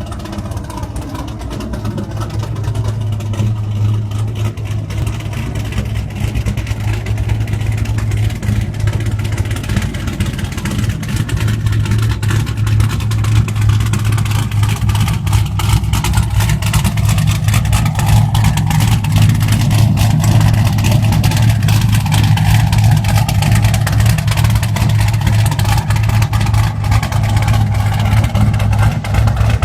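Chevrolet Camaro V8 idling with a choppy, lopey rough idle from a custom Brian Tooley Racing camshaft, loud and raw through headers with the catalytic converters and mufflers deleted.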